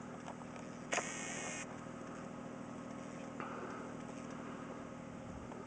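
An engine running steadily in the distance, a faint low hum, with a brief louder noise about a second in.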